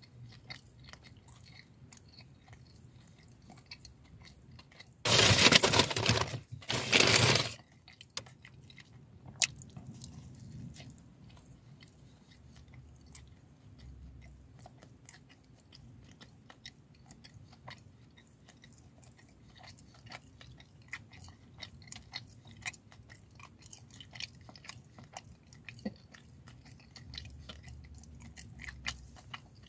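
A person chewing a mouthful of apple fritter doughnut, with many small crunching and wet clicking sounds. About five to seven seconds in, two loud bursts of noise stand out above the chewing.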